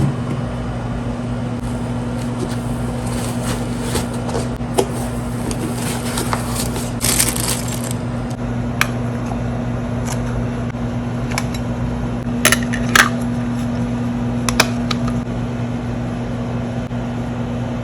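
Scattered sharp clicks and light taps of small hard objects, with a short rustling burst about seven seconds in and a few louder clicks around twelve to thirteen seconds, over a steady low electrical hum.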